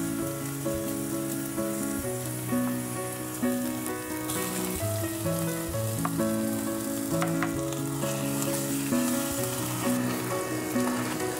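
Food sizzling as it fries in a pan, the hiss growing stronger about four seconds in, with two light clicks in the middle. Soft background music plays throughout.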